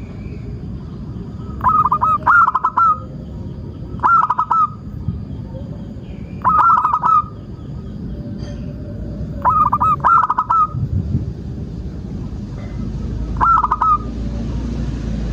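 Zebra dove (perkutut) calling: about five bouts of quick rolling coos, each lasting under a second, repeated every two to three seconds, over a steady low background rumble.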